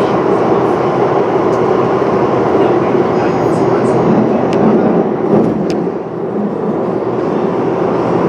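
MTR West Rail Line SP1900 electric multiple-unit train running between stations, heard inside the passenger car: a steady rumble of wheels on rail and running gear. The sound dips briefly about six seconds in.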